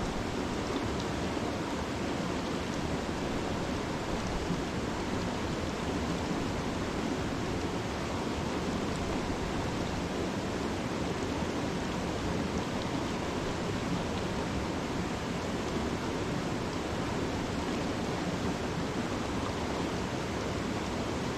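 Steady rushing water of a mountain trout stream.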